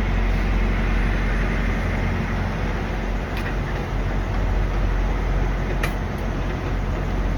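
Steady low rumble of idling diesel truck engines, with a couple of faint ticks about halfway through.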